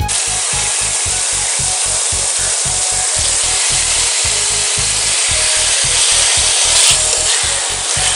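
Cloud ear fungus sizzling in hot oil and fermented bean curd in a wok as it is stir-fried: a loud, steady hiss. Background music with a steady beat runs underneath.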